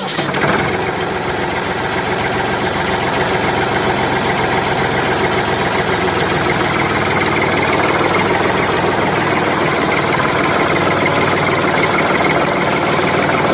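Diesel-type tractor engine idling steadily with a knocking rattle, the same throughout with no revving.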